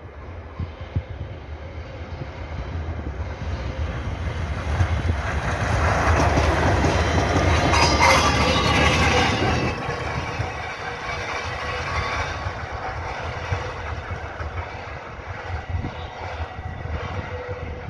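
A train of locomotives passing close by on snowy track. Its rumble of wheels on rail builds, is loudest about eight seconds in as it goes past, then fades as it runs away.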